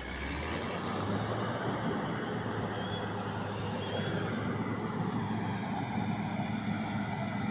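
Motor vehicle engine running steadily with a low hum, getting louder in the first second and then holding steady over a noisy rush.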